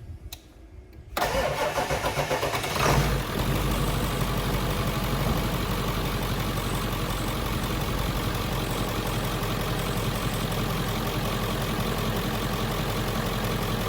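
7.3-litre diesel engine cranking on the starter for under two seconds, catching about three seconds in, then settling into a steady idle.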